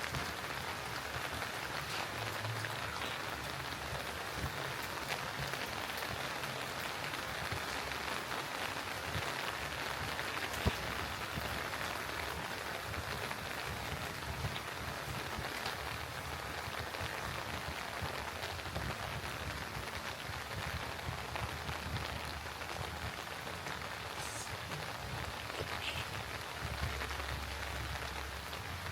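Steady light rain falling and pattering on surfaces, an even hiss with scattered drip ticks and one sharper click about ten seconds in.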